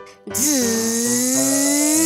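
A long airplane flying sound starts a moment in: a whooshing tone that dips, then climbs slowly in pitch. Light children's background music plays underneath.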